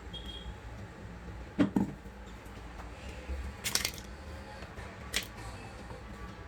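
Kitchen handling noises while carrot purée is filled into silicone popsicle moulds: a quick double knock about one and a half seconds in, a short scrape near the middle, and a click about five seconds in, over a low steady hum.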